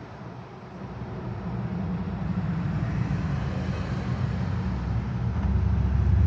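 A car engine's low rumble, growing steadily louder from about a second in.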